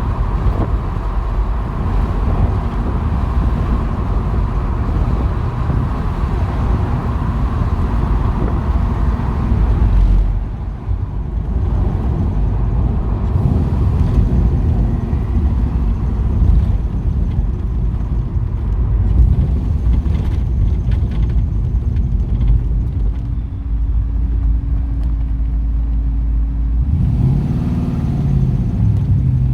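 The LS2 V8 of a 1973 Chevrolet Camaro driving with heavy wind noise for the first ten seconds or so, then running more evenly, settling to a steady low hum. Near the end it revs up and down as the car pulls away.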